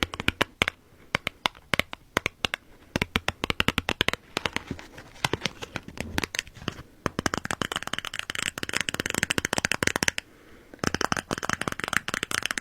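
Cards being shuffled and handled: rapid runs of crisp flicks and snaps, with a denser riffling stretch in the middle and again near the end.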